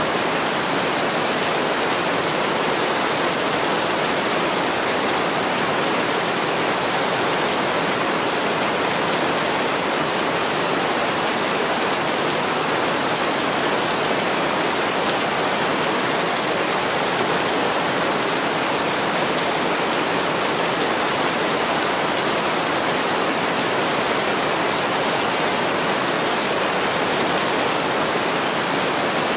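Heavy rain falling steadily on a window, an even unbroken hiss of water.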